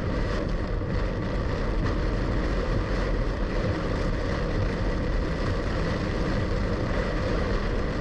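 Steady road noise heard from inside a moving car: a low engine and tyre rumble under a constant hiss.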